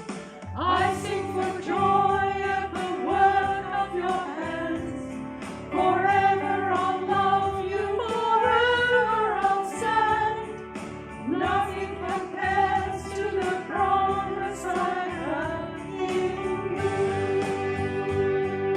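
A small church singing group singing a hymn with instrumental accompaniment, voices holding sung phrases in unison.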